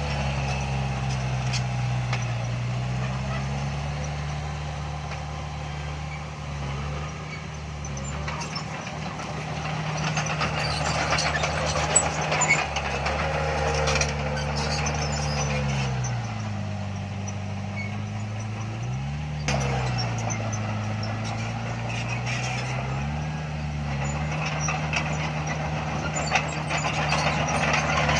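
Heavy diesel earthmoving machinery working: the engine runs loud and steady, its pitch sagging and picking up again as the load changes, with a quick rev about two-thirds of the way in and scattered clanks and knocks.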